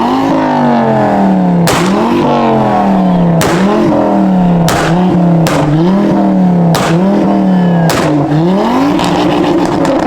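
A supercar engine revving hard. Its pitch jumps up sharply and then slowly sags, over and over, with sharp cracks at about eight points.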